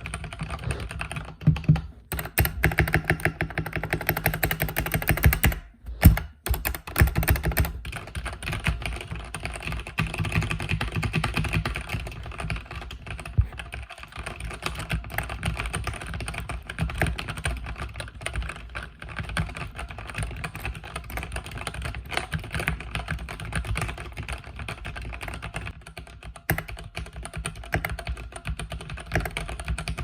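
Continuous fast typing on a mechanical keyboard with linear red switches: dense key clicks, pausing briefly about six seconds in.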